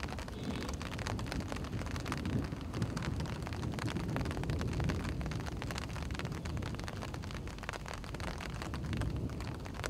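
Steady outdoor ambience of light rain pattering as a dense scatter of small ticks, over a low wind rumble on the microphone.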